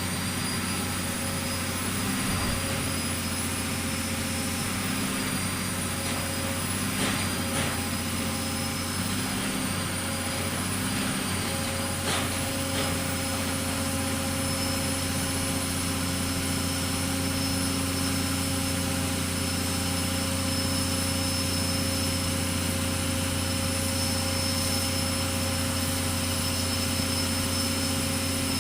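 Pile-driving machine's engine running steadily, a low drone with a thin high whine over it. There are no regular hammer blows, only a couple of brief clicks about 7 and 12 seconds in.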